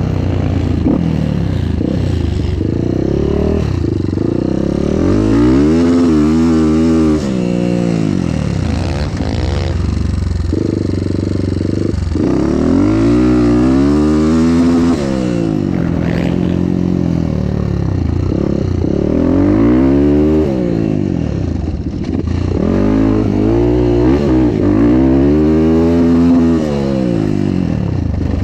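Motocross bike engine running under way, its pitch rising and falling about four times as it accelerates and eases off through the gears.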